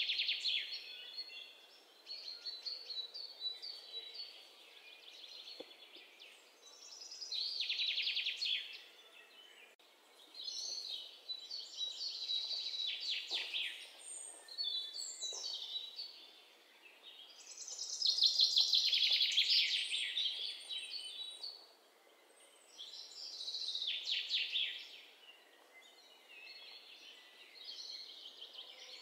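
Birds chirping and chattering in short bursts every few seconds, each a rapid string of high notes lasting one to two seconds, over a faint steady hiss.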